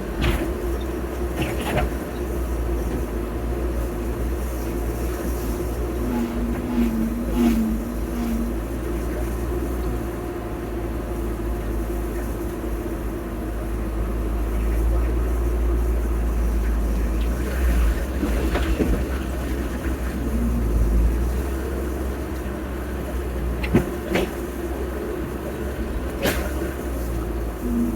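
Heavy earthmoving machinery engine running steadily, with a few sharp knocks and clanks now and then.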